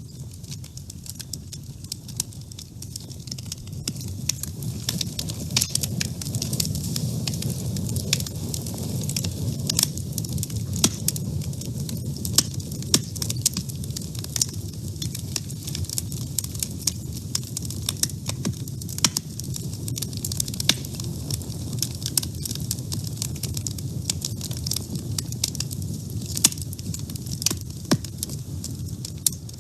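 Wood fire burning in a woodstove: a steady low rush of flame with frequent, irregular sharp crackles and pops.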